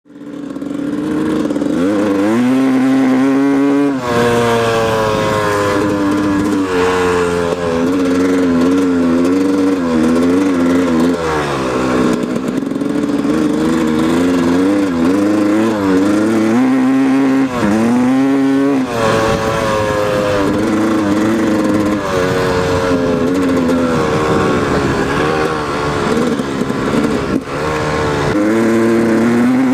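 A 1997 Yamaha YZ250's two-stroke single-cylinder engine with an FMF Fatty expansion-chamber pipe, running and revving up and down again and again, its pitch wavering between revs. This is the weird noise the owner hears in first and second gear, tied to a lack of low-end power.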